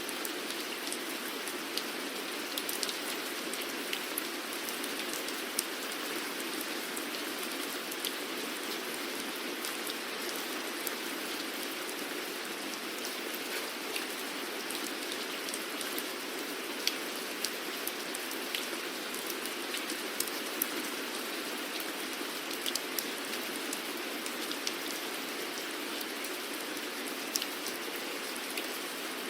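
Steady rainfall, a constant even hiss with scattered sharper taps of individual drops landing on a surface.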